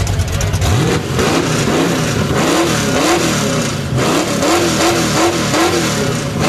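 A 1967 Ford Mustang's engine is running through open exhaust headers. It idles at first, then from about a second in it is revved over and over in quick blips, each one rising and falling in pitch. The revving read 112 decibels on the contest's decibel meter.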